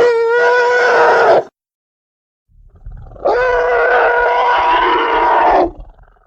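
Elephant trumpeting twice. A short call comes at the start, and after a brief silence a longer call of about two and a half seconds follows, led in by a low rumble.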